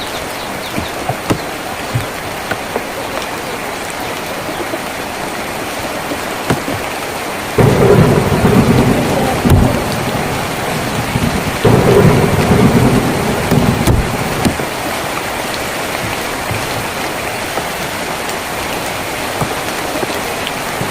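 Steady rain on a tin roof, with scattered drop clicks. About a third of the way in, a loud rumble of thunder breaks in suddenly, swells again and dies away after about six seconds.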